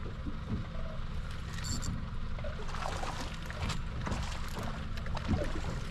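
Water sloshing against a small boat's hull, with scattered light knocks and splashes.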